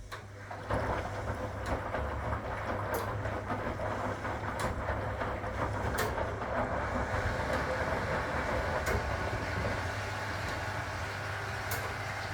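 A 1961 AEG Lavamat Noris washing machine starts a new stage of its programme about half a second in and then runs on steadily: a low motor hum under a rushing, rattling noise, with a sharp click every couple of seconds.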